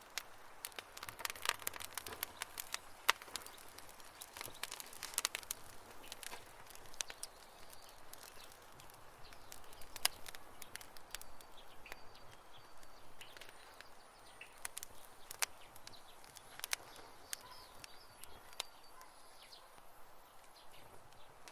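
Wood campfire crackling: irregular sharp pops and snaps over a soft hiss of burning, busiest in the first few seconds and sparser later.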